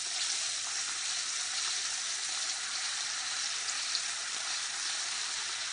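Fish frying in butter in a hot pan: a steady sizzle.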